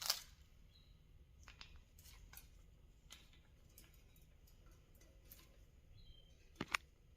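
A parrot picking and chewing at a toy: scattered small clicks and crackles, a few faint short high chirps, and one sharp crack near the end.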